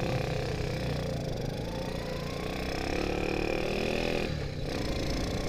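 Honda S90 motorcycle's small single-cylinder four-stroke engine running under way, its pitch rising as it accelerates, with a short dip about four seconds in before it runs on.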